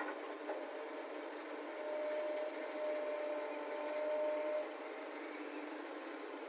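Heavy machinery running steadily at an earthworks site, with excavator engine noise. For about three seconds in the middle, a steady whine rises over it, typical of an excavator's hydraulics working under load. A couple of short knocks come right at the start.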